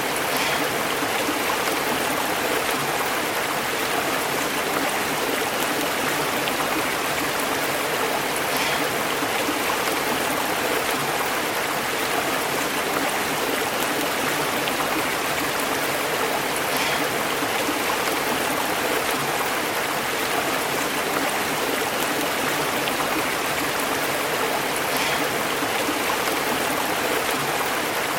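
Stream water flowing over rocks: a steady, unbroken babbling rush.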